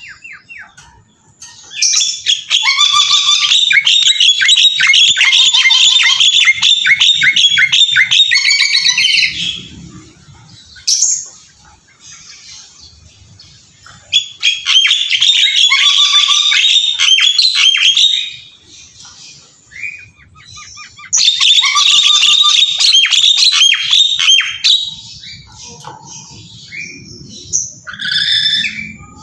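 A bird singing in three long bouts of rapid, high twittering notes, several seconds each, with short pauses and single calls between them.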